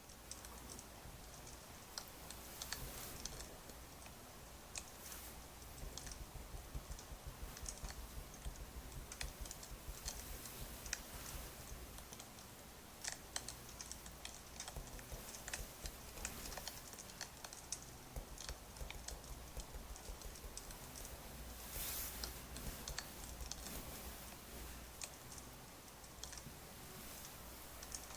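Crackling wood fire: a low steady rumble with irregular sharp pops and snaps of burning firewood.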